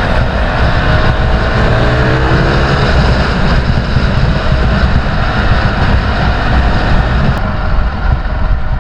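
Dirt bike engine running while riding, under a steady heavy rumble of wind on the microphone, with the engine note rising slightly about two seconds in.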